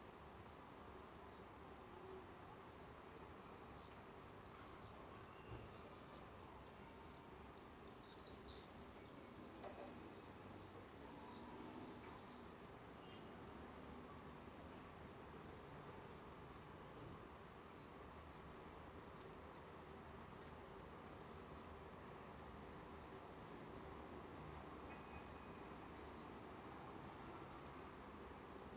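Small birds chirping: many short, high calls repeating throughout, busiest in the middle, over a faint steady outdoor background noise.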